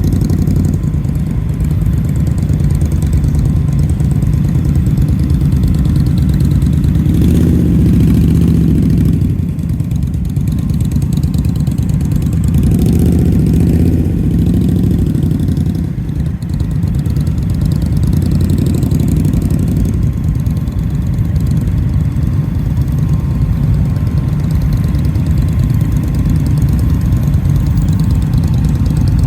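A motorcycle engine runs steadily on the road. Its pitch rises and falls twice, around eight and thirteen seconds in.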